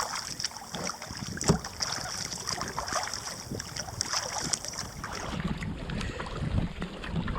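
Kayak paddle strokes splashing and dripping in the water, with wind buffeting the microphone.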